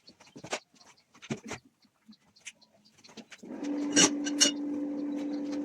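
A few knocks and clicks of handling work, then an electric motor starts about three and a half seconds in and runs at a steady hum, with two sharp clicks just after it starts.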